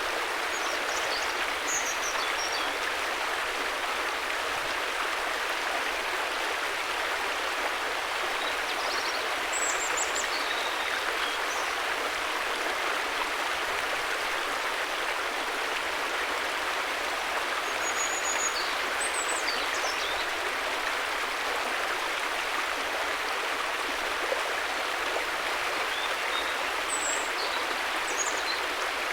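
River water flowing with a steady, even rush. A few faint high chirps sound over it now and then.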